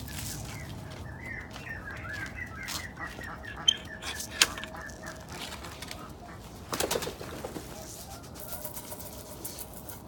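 Captive birds in a pheasant aviary calling with a quick run of short, repeated chirps over the first half. Two sharp clicks come in the middle, and a short burst of noise comes about seven seconds in.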